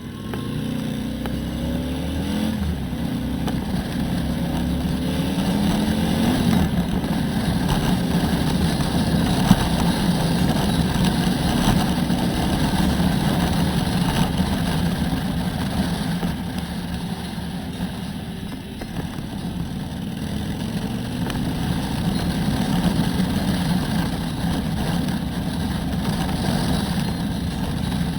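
Harley-Davidson Road Glide V-twin engine under way, rising in pitch as the bike accelerates and dropping back twice in the first seven seconds as it shifts up. It then runs steadily, eases off briefly about two-thirds of the way in, and pulls again.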